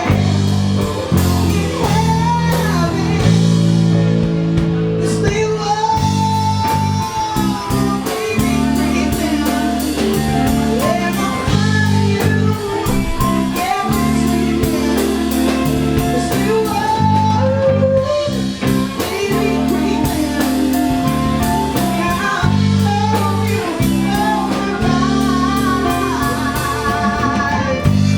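A band playing a blues-rock song: a voice singing over guitar and a drum kit with a steady beat.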